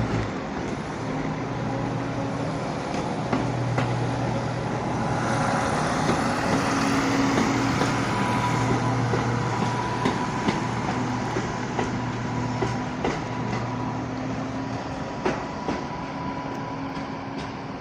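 Class 175 diesel multiple unit pulling out of the station, its underfloor diesel engines droning steadily under power and its wheels clicking over rail joints. It grows louder toward about halfway, then fades.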